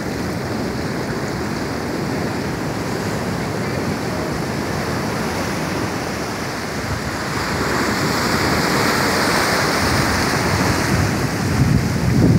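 Ocean surf washing onto a beach, a steady rush with a wave building louder about seven seconds in and then easing.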